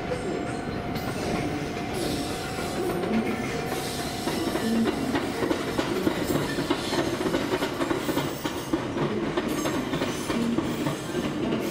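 A train running on nearby tracks: a steady rail rumble that gets a little louder and busier about four seconds in.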